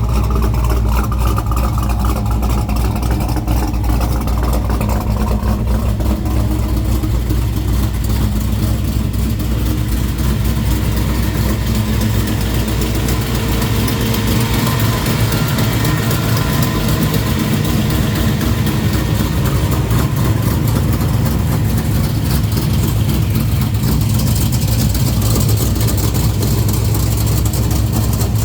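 Car engine idling steadily through newly fitted Jones Flow Pack mufflers, with a deep, low exhaust note. The exhaust is not yet welded up.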